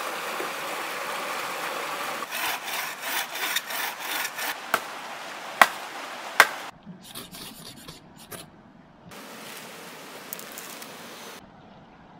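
Wood being sawn by hand in quick back-and-forth strokes, followed by three sharp knocks a little under a second apart. The sound then drops to quieter scattered scrapes and a steady hiss.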